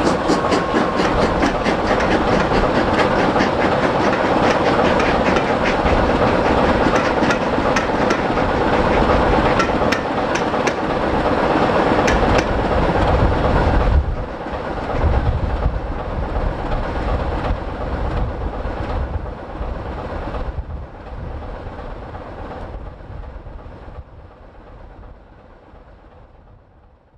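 Passenger coaches of a train running past, their wheels clicking over the rail joints in a dense clickety-clack. About fourteen seconds in, the sound drops suddenly as the last coach goes by, and the clicking then fades away.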